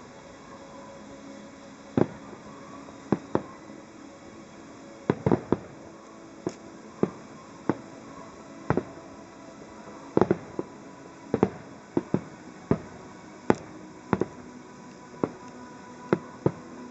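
Aerial fireworks display: firework shells bursting in a run of sharp, separate bangs at uneven intervals, sometimes two or three in quick succession, about two dozen in all.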